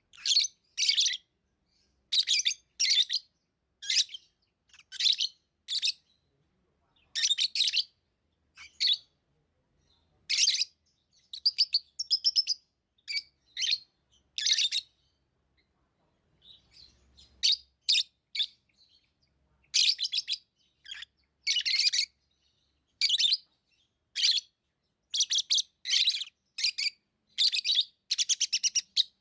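Pet lovebirds chirping: repeated short, sharp, high calls in quick clusters, with a brief lull about halfway through.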